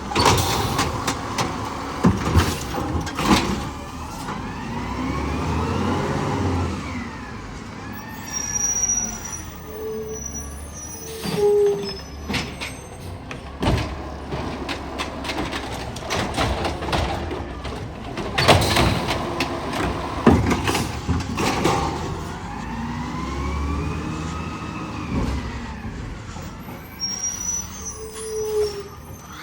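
Garbage truck working through a pickup. Its engine revs up and back down twice as the hydraulics run, with repeated metallic clanks and bangs, and a few short high squeals.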